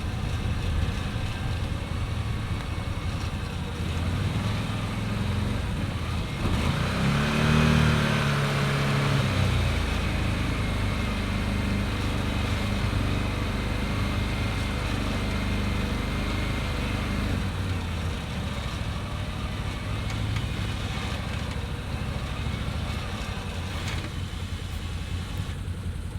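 Vehicle engines running while a side-by-side's winch pulls a stuck pickup out of the sand. About seven seconds in, an engine revs up and drops back down.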